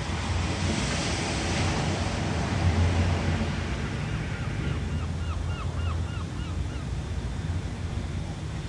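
Ocean surf: a wave breaks and washes in about a second in, over a steady low rumble of the sea. A run of about ten short, quickly repeated chirps sounds in the middle.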